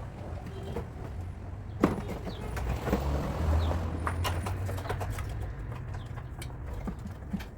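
Irregular knocks and taps, the loudest about two seconds in, over a low steady hum.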